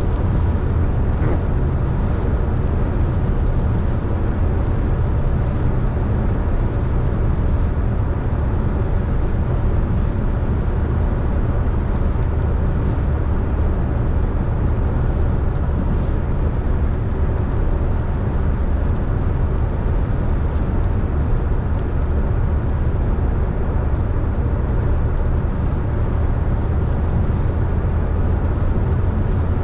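Car driving on a wet road in rain: steady low road and engine rumble with tyre noise.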